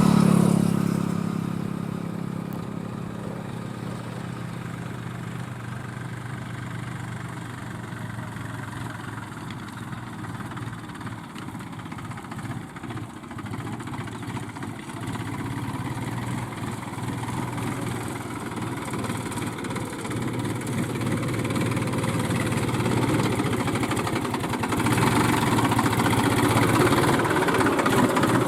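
Diesel vehicle engine running. It is loudest at the very start and fades over the first couple of seconds, then runs steadily, and grows louder again about 25 seconds in.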